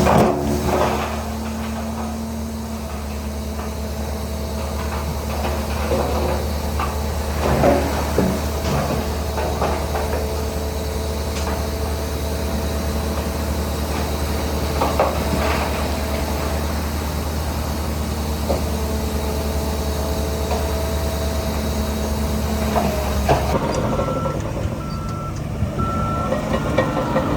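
Heavy diesel earthmoving machinery, a bulldozer and dump trucks, running steadily with occasional metal clanks. Near the end a reversing alarm beeps about four times.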